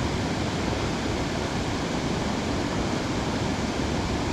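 Waterfall rushing with a steady, even sound of falling water.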